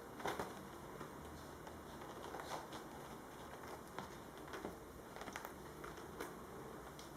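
Kittens' claws scratching and catching as they climb, scattered light scrapes and taps about once a second, the sharpest just after the start, over faint room tone.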